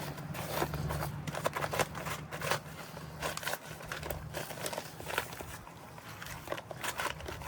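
Concrete mix being worked by hand, with irregular scraping strokes, over a low steady hum that fades out about four seconds in.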